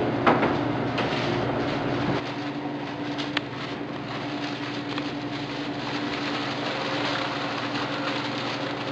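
Steady machine-like hum and hiss with a few faint clicks and taps scattered through it.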